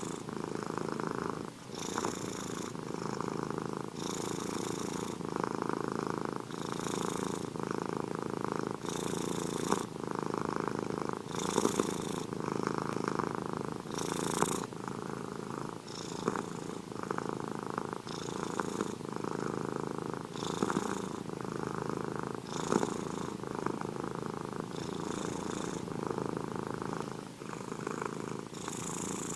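Domestic cat purring steadily and close up, the purr changing in a cycle that repeats about every two seconds.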